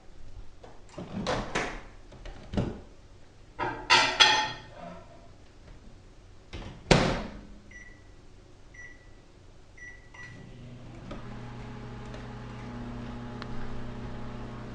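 Microwave oven being loaded and started: clunks and a rattle as the bowl goes in, a sharp bang of the door shutting about seven seconds in, three keypad beeps about a second apart, then the oven starts running with a steady hum.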